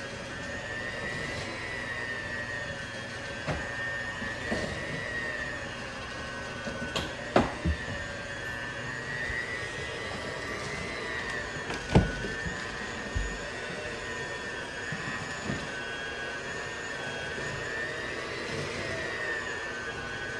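Electric hand mixer running steadily, its motor whine rising and falling slightly in pitch as the beaters work through the dough. There are a few knocks, the loudest about seven and twelve seconds in.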